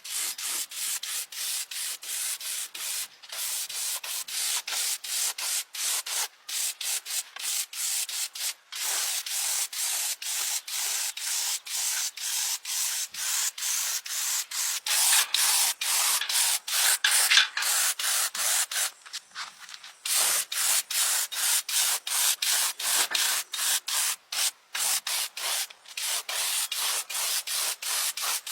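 Rapid back-and-forth abrasive strokes by hand on a surface, about three rasping strokes a second, with a short break about two-thirds of the way through.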